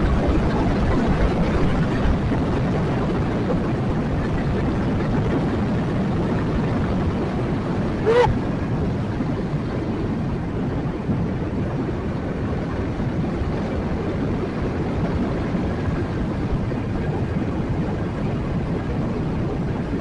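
Motorcycle riding steadily, its engine and the wind blending into an even noise on the rider's microphone, with one short sharp sound about eight seconds in.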